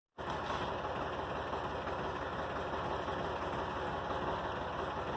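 Massey Ferguson 231 tractor's three-cylinder diesel engine idling steadily, after a split-second break in the sound at the very start.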